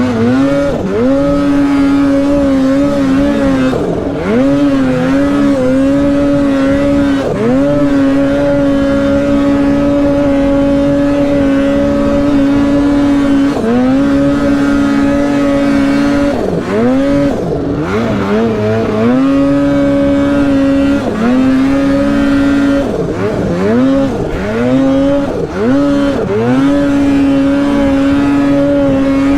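Polaris mountain snowmobile's two-stroke engine running at high revs while riding, its pitch dropping and climbing back again and again as the throttle is let off and reapplied, most often around a third and two thirds of the way through.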